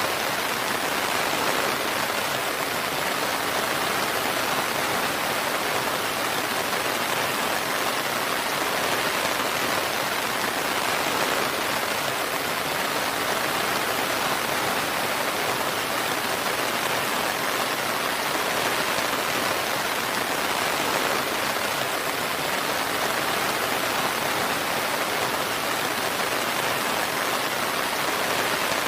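Steady rain falling, an even hiss of countless drops that holds at one level without breaks.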